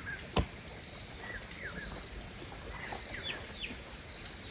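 Steady high-pitched insect drone with several short, falling bird chirps over it, and one sharp knock about half a second in.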